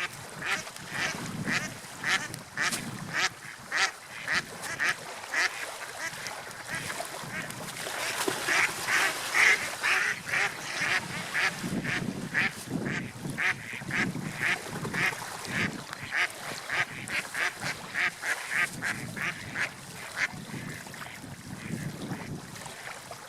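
Seagulls giving many short, harsh calls in quick succession, about three a second, over a low wash of sea and wind.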